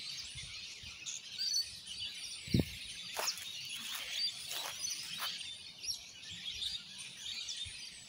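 Wild birds chirping and calling, many short high calls overlapping. A single low thump sounds about two and a half seconds in.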